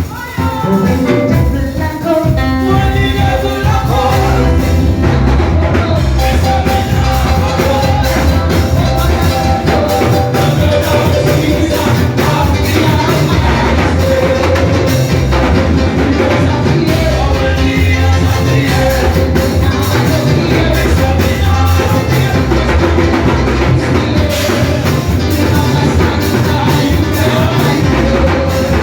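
Loud live worship music: a band with drum kit and bass playing a steady beat, with singing.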